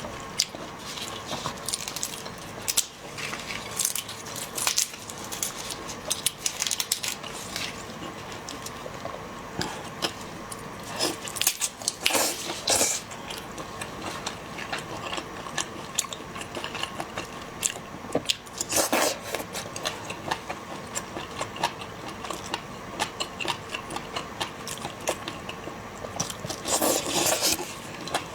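Shellfish being eaten close to the microphone: a steady run of small clicks, cracking and crunching from shells being broken and peeled, with chewing. A few louder crunches come about 12, 19 and 27 seconds in.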